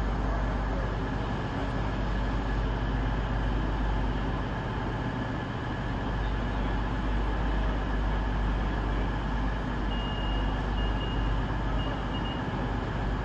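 Underfloor diesel engines of a CrossCountry Voyager diesel multiple unit running with a steady low drone at the platform. A few short high beeps sound about ten seconds in.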